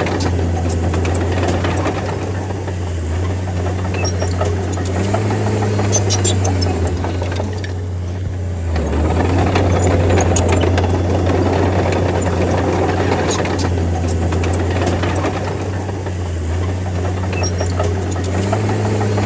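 Bulldozer's diesel engine running under load with a steady low drone that shifts slightly up and down in pitch and eases briefly about eight seconds in, with scattered sharp clicks over it.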